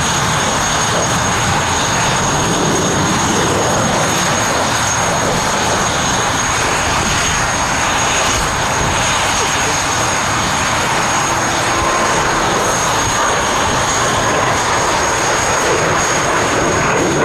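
Jet noise from BAC Strikemasters' Viper turbojets during a flying display: a loud, steady roar that holds without rising or falling.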